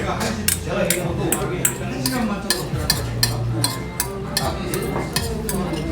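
Eating utensils clicking and scraping against a dish, about two or three strokes a second, with a faint murmur of voices behind.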